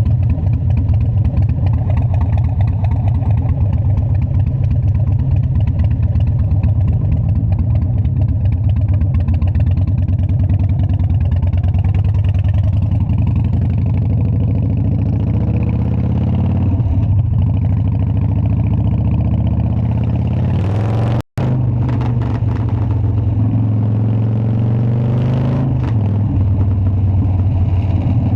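Harley-Davidson Dyna's air-cooled V-twin engine running loud and steady. The revs rise briefly about three-quarters of the way through, and the sound cuts out for a split second.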